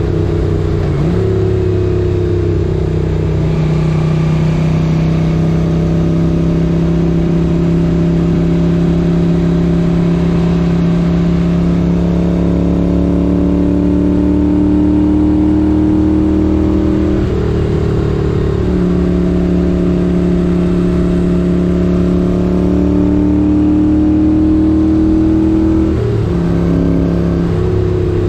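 1978 Moto Guzzi 850 Le Mans air-cooled transverse V-twin running under way, its pitch climbing slowly as it pulls, with wind noise. The engine note changes suddenly about a second in, again around two-thirds through, and near the end, as the throttle or gear changes.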